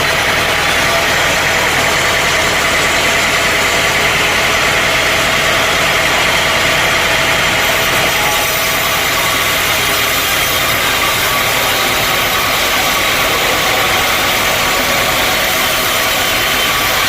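Sawmill machinery running steadily, a loud continuous mechanical drone with a high steady whine.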